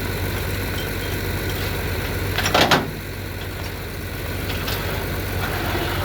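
A vehicle engine idling steadily with a low hum, with one brief, louder rushing burst about two and a half seconds in.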